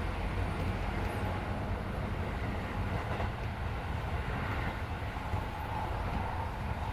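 Running noise inside a Keisei 3400 series electric train car: a steady low rumble of wheels on rail and the traction gear as the train runs along the line, with a faint steady tone in the second half.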